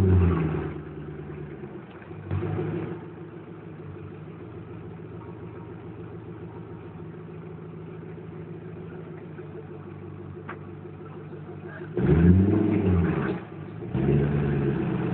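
Koenigsegg CCXR's twin-supercharged V8 idling and being revved: a rev dies away at the start, there is a short blip after about two seconds, and it settles into a steady idle. Near the end come two sharp revs, the first rising and falling, the second held a moment.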